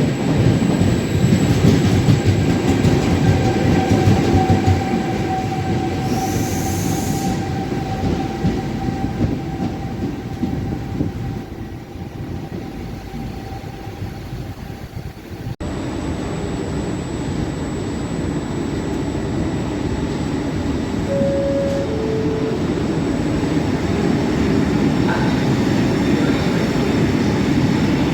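Electric train running through a station, heavy rumble of wheels and running gear with a steady whine over it; the sound cuts abruptly about halfway through to another stretch of train noise. Later a short two-note falling tone sounds once.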